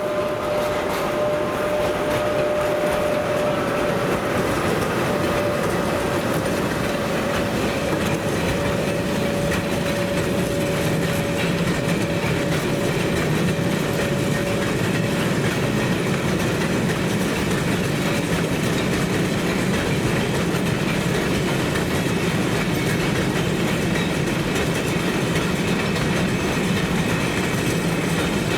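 Train rolling by, with a steady rumble and clatter of wagon wheels on the rails. A thin steady tone is heard in the first half and fades out about halfway.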